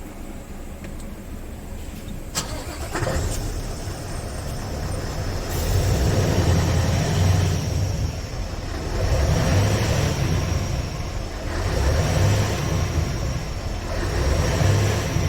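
A Scania R650's V8 diesel engine starts about three seconds in, then is revved up and let back down four times in slow swells.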